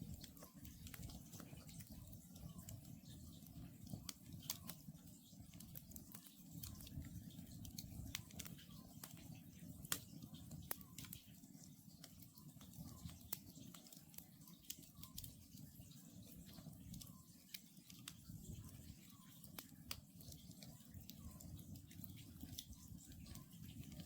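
Wood campfire crackling, with frequent sharp pops over a low steady rumble. Faintly behind it an Oriental scops owl gives its short call every couple of seconds.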